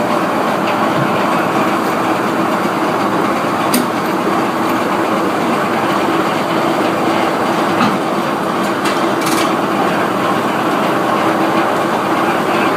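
Sawmill machinery running steadily with a constant hum and a dense mechanical clatter, broken by a few sharp knocks.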